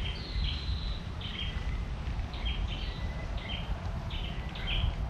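Small birds chirping, short repeated notes in quick groups, over a steady low rumble.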